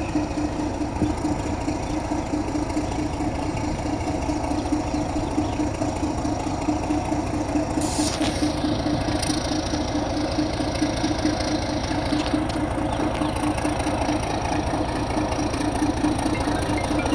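Diesel shunting locomotive's engine running steadily with a deep, even hum. A hiss joins about eight seconds in and dies away a few seconds later.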